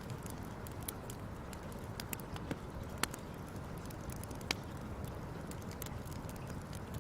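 Wood fire crackling: a steady low hiss with scattered sharp pops, the loudest about three seconds in and again about four and a half seconds in.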